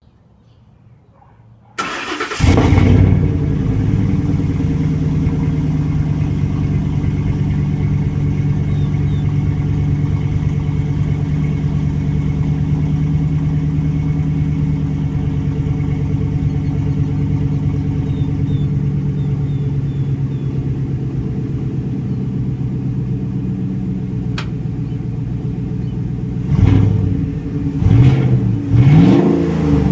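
Ford Raptor pickup's engine cold-starting through an opened-up stock exhaust with the resonator removed: a brief crank about two seconds in, a flare as it catches, then a steady cold-start idle. Near the end it is revved three times in short blips.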